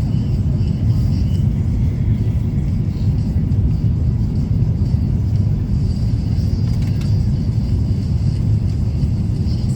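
Steady low rumble of vehicle interior noise, even throughout with no distinct events.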